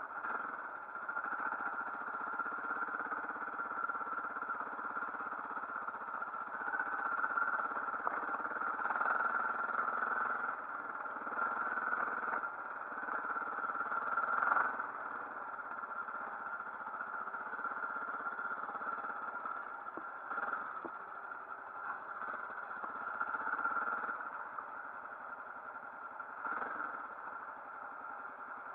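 Motorcycle engine running steadily, swelling and easing a little in loudness at times.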